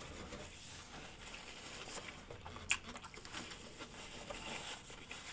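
Faint close-up mouth sounds of chewing and swallowing the last of a mouthful of food, with a single sharp click about two and a half seconds in.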